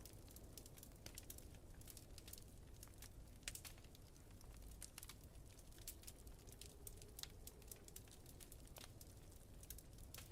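Wood fire crackling faintly: quick sharp pops and snaps at irregular intervals, over a steady low rumble of wind.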